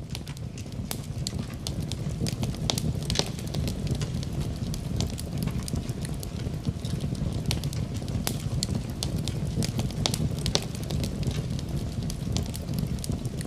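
Wood fire crackling in a fireplace, with frequent irregular sharp pops and snaps over a steady low rumble. It fades in over the first couple of seconds.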